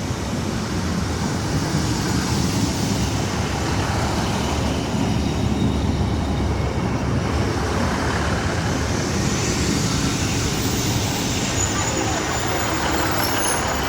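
Train running through a station with a steady rumble that swells a little mid-way, and thin high-pitched squeals coming in over the last few seconds.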